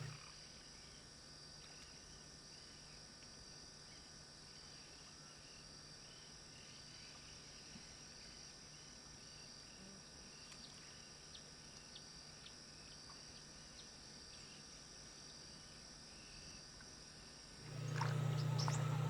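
Faint outdoor field ambience: a steady high-pitched drone with soft, rapidly repeated chirping bird calls in the first half and a few short high chirps later.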